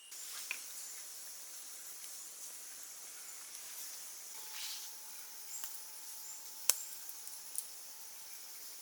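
Forest background sound: a steady high hiss, with a few sharp clicks and snaps, the loudest about two-thirds of the way through.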